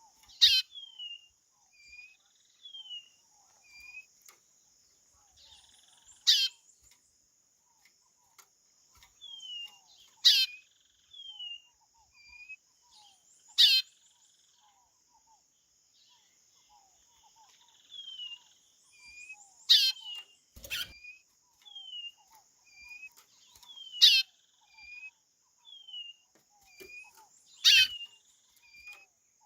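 White-bellied seedeater (chorão) calling: seven loud, steep falling whistles spaced a few seconds apart, with a run of short falling chirps about once a second between them. A steady high hiss runs underneath, and a single dull thump comes about two-thirds of the way in.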